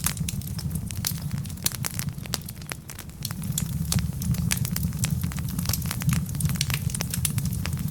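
Wood fire of burning logs crackling: frequent irregular sharp pops and snaps over a steady low rumble of the flames.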